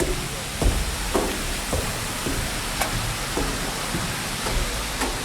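Jhor waterfall, running low in winter, giving a steady splashing rush of falling water. Irregular soft knocks and thumps, about one or two a second, sound over it.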